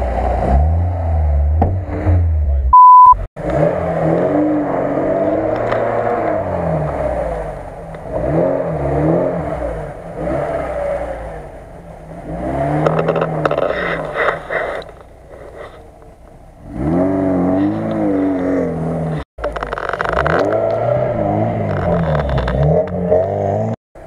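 Lada Niva (VAZ-2121) engines revving hard and easing off, over and over, as the cars drive over a boulder and a log in the snow. The pitch rises and falls with each push, and about three seconds in there is a short, loud electronic beep.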